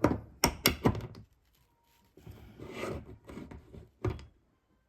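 Sharp clicks and knocks from a plastic child-resistant cap being worked on a can of plumbing solvent, then softer rubbing and one more knock about four seconds in.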